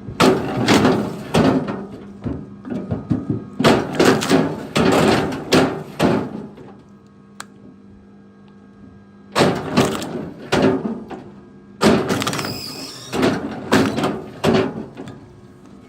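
Four bursts of knocking and clattering from wood being handled, with a steady low hum in the pauses.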